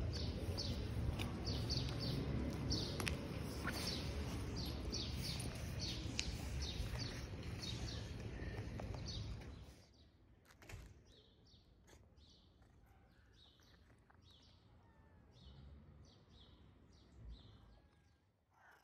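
Small birds chirping over and over in quick, short calls over a low outdoor background rumble, which drops away abruptly about halfway through while the chirping goes on.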